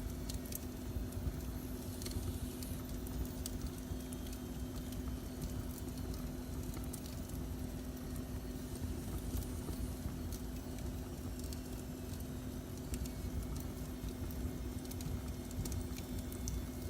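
Wood fire burning in a fireplace, with scattered small crackles and pops over a steady low rumble and hum.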